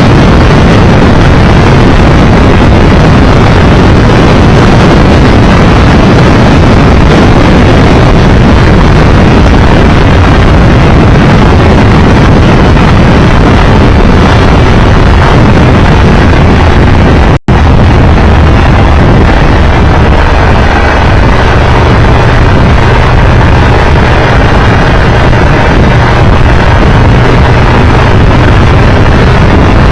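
Loud, steady rush of riding a motorcycle at speed: wind noise over the Triumph Tiger Explorer 1200's three-cylinder engine. It cuts out for an instant about two-thirds of the way through, and a steady low engine hum is clearer afterwards.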